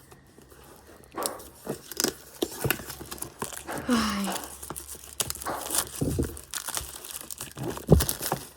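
Plastic packaging being crinkled and torn by hand in irregular rustles and clicks, as a trading-card box and its wrapping are opened.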